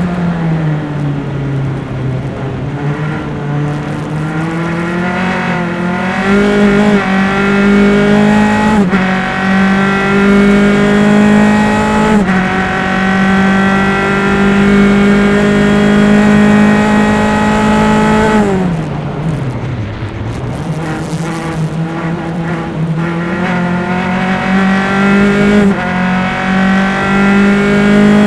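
Single-seater race car engine heard through onboard engine microphones at racing speed. The engine note falls early on, climbs in steps through the gears, holds steady for several seconds flat out, then drops steeply about nineteen seconds in under braking and climbs again as the car accelerates out.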